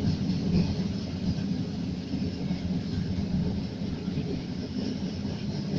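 A train running on line 402, a steady, even rumble with hiss above it.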